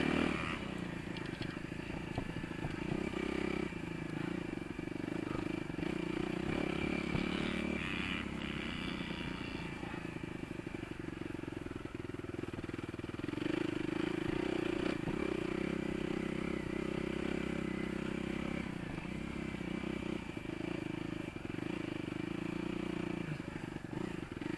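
Motocross bike's engine running as it is ridden around a dirt track, heard on board, its note stepping up and down with the throttle.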